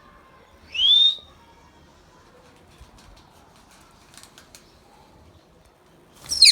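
Indian ringneck parrot calling: a loud, short rising whistle about a second in, then a second sharp call near the end.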